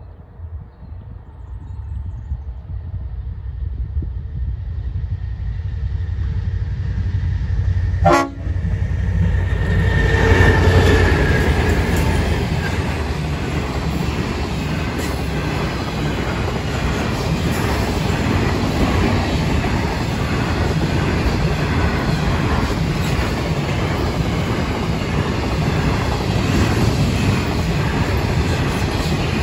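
Freight train led by G-class and 81-class diesel-electric locomotives growing louder as it approaches, the locomotives passing about ten seconds in. Then a long rake of loaded grain hopper wagons rolls past steadily with rumbling wheels and rail clatter.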